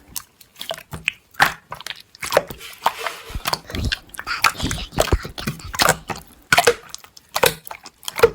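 Slime being squeezed and poked by hand, giving an irregular run of sticky pops, clicks and squelches.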